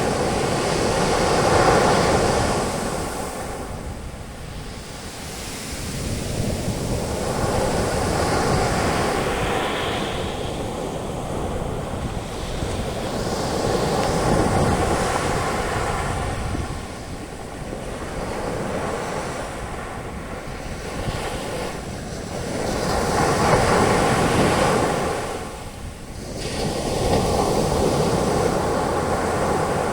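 Sea waves breaking and washing up the beach as foaming surf. The rush swells and ebbs every several seconds.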